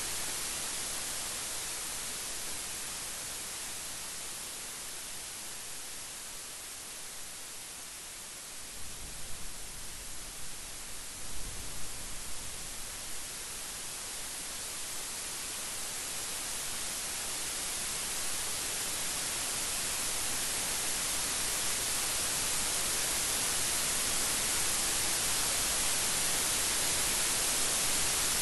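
Steady hiss of heavy rain, growing louder over the second half. About nine seconds in, a low rumble of thunder lasts a few seconds.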